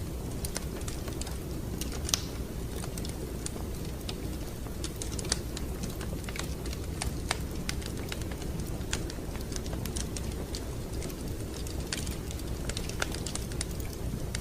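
Wood fire crackling: irregular snaps and pops over a steady low rumble.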